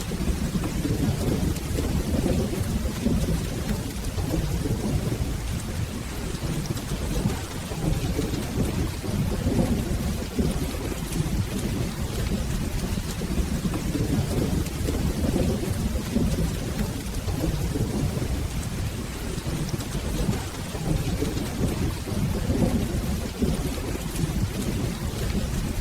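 Steady rain with a continuous low, rolling rumble of thunder, the rumble louder than the rain's fainter hiss.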